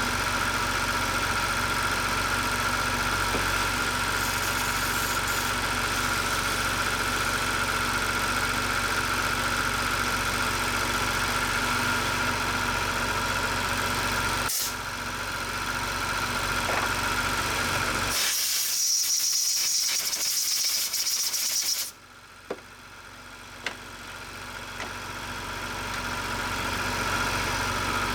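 Car engine idling steadily, with a steady high hum over it. About two-thirds through, the low rumble drops out and a loud hiss sounds for about four seconds, then cuts off suddenly, leaving a much quieter sound that slowly builds back up.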